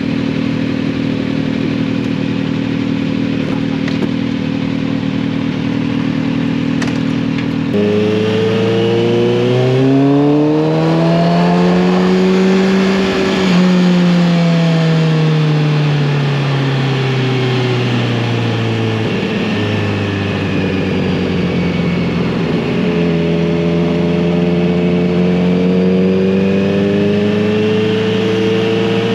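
Kawasaki Z900RS inline-four motorcycle engine and exhaust under way. The note holds steady for the first several seconds, then the revs rise for about five seconds and fall away smoothly over the next six. It settles into a steady cruise that climbs slowly near the end.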